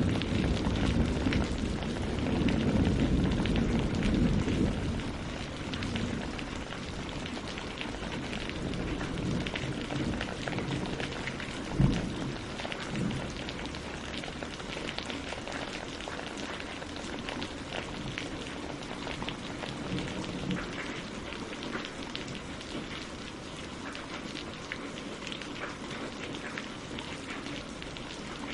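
Steady rain falling, with many individual drops ticking close by. A low rumble of thunder dies away over the first few seconds, and a single sharp thud comes about twelve seconds in.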